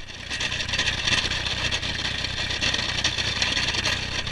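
Old Ford tractor's engine running low under a loud, steady scraping as the snowplow blade is pushed along snow and ice.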